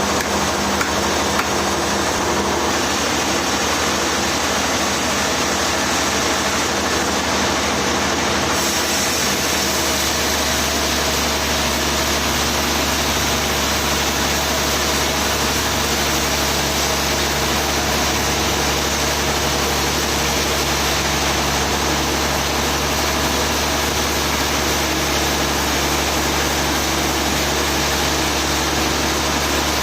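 Sawmill machinery running steadily with an engine drone. About nine seconds in, a deeper low hum sets in.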